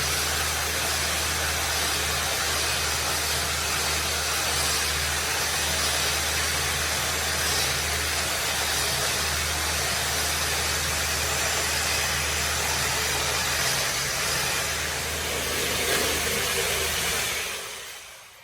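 A motor-driven machine running steadily, with a strong low hum under a loud hiss. It winds down and stops near the end.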